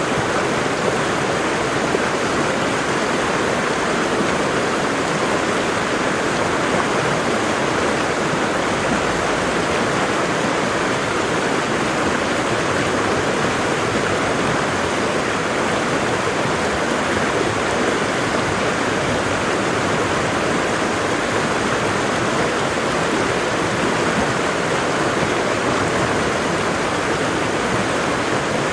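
Waterfall: water pouring and splashing in a steady, unbroken rush that does not change.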